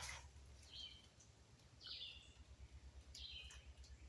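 Faint bird calls: a short stepped chirp repeated about once a second, over a low steady hum.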